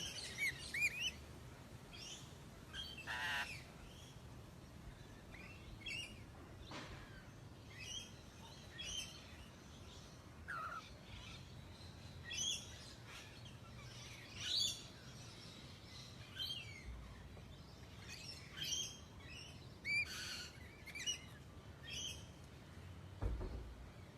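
Parrots calling: short, high chirping calls, one every second or so, some louder than others.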